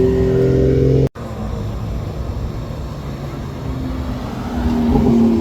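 A car engine running with a steady pitch. The sound cuts out for an instant about a second in and then returns with more noise, and the steady engine tone comes back near the end.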